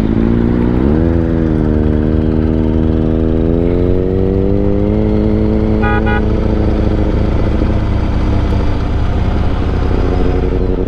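Yamaha Stratoliner's big V-twin engine pulling as the bike accelerates: its pitch steps up about a second in, climbs steadily for a few seconds, then holds. A short burst of high beeping sounds about six seconds in.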